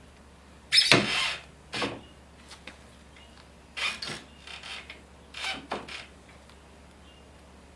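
Hand tools and parts being handled and scraped in several short bursts, the loudest about a second in.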